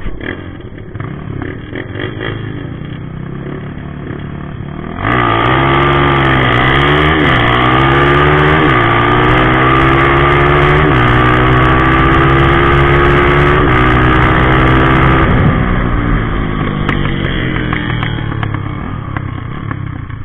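A drag-race motorcycle accelerating hard at full throttle, its engine note climbing and dropping back at each upshift, four or so gear changes over about ten seconds, then fading away. Lower engine noise in the first few seconds.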